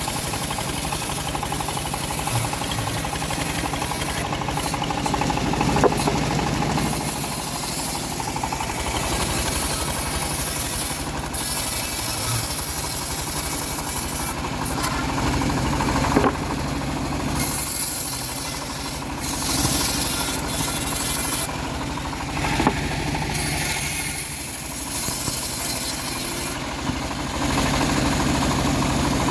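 Home-built bandsaw mill running steadily while sawing teak, with a high hiss that comes and goes and a few sharp knocks.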